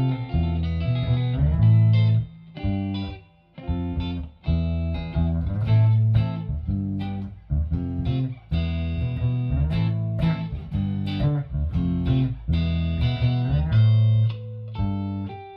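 Electric guitar playing a shuffle: short chords and low notes in a loping rhythm, broken by a few brief pauses.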